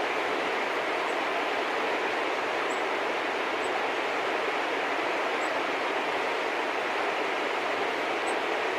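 Steady rushing background noise, even and unchanging, with a few faint, short, high bird chips scattered through it.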